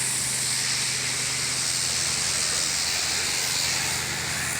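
Steady hiss of rushing or spraying water, with a faint low hum underneath. It eases slightly near the end.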